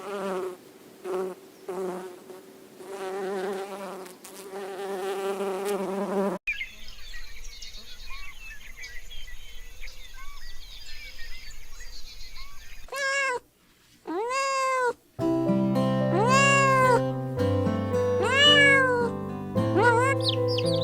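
A sequence of separate animal sound clips. It opens with repeated wavering calls, then a hissy stretch with small chirps, then cat meows rising and falling in pitch. The last meows come over background music.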